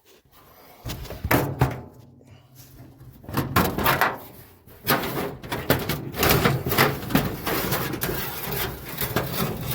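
Metal clunks, knocks and rattles of the 1931 Plymouth's hood being unlatched and lifted open, a string of sharp knocks from about a second in, over a steady low rumble.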